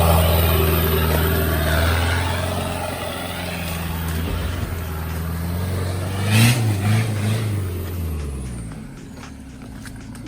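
Off-road vehicle's engine running steadily, with a short wavering surge about six and a half seconds in, then its note falling away about eight seconds in.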